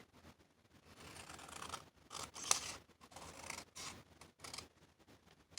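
Scissors cutting through paper in a series of snips, with the loudest, sharpest snip about halfway through.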